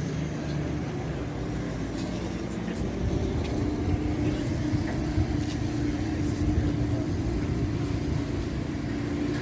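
Steady hum of a running motor: a low, even drone with a held tone, plus a few faint ticks.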